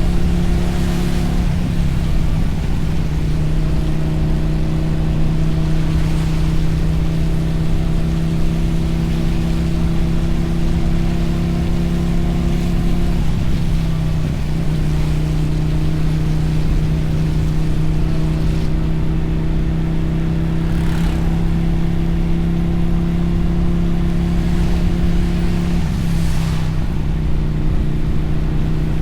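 Motorcycle engine running steadily at cruising speed, its note dipping briefly about halfway through and again near the end, over a constant rush of wind and tyre noise with a few short passing whooshes.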